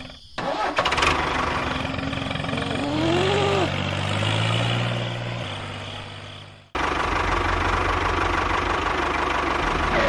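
Tractor engine running, its pitch rising about three seconds in. The sound fades, cuts off abruptly about two-thirds of the way through, then a steady low engine hum starts again at once.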